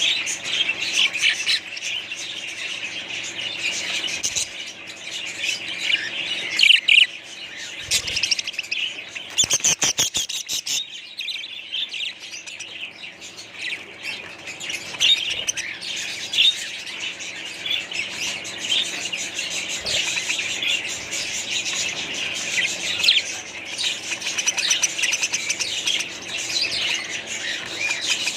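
A flock of budgerigars chirping and chattering continuously, many birds at once. About ten seconds in there is a brief run of rapid, evenly spaced clicks.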